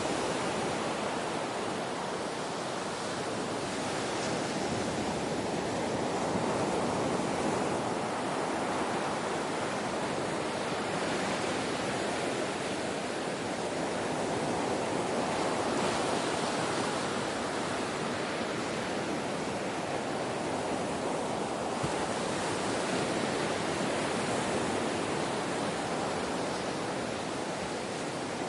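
Gentle ocean waves washing on a shore: a continuous soft rush that slowly swells and eases every several seconds.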